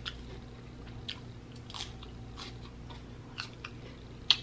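Crunching and chewing a piece of crisp iceberg lettuce: a string of sharp crunches about once a second, the loudest near the end.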